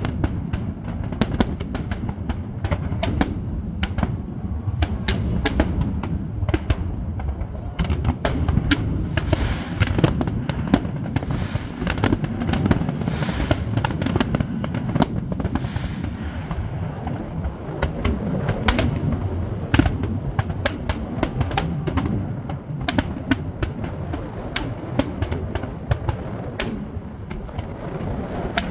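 Fireworks going off continuously: a steady low rumble of bursts with many sharp cracks and pops throughout.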